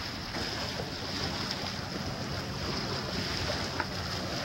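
Wind buffeting the microphone over small waves washing at the water's edge, a steady rushing noise with a low rumble. A single brief tick sounds near the end.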